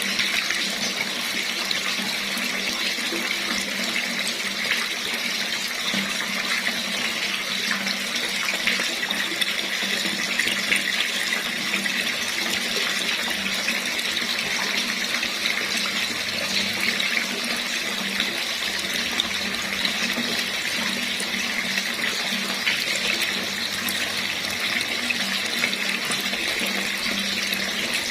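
Tap water running steadily into a basin in a continuous stream.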